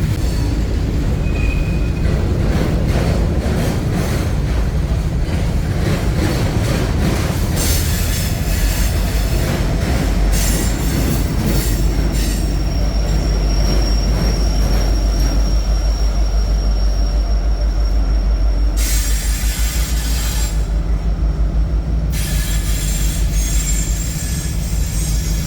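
Train rolling past with a steady low rumble of wheels on rail. About halfway through, a thin high wheel squeal holds for several seconds, and there are several stretches of high hiss.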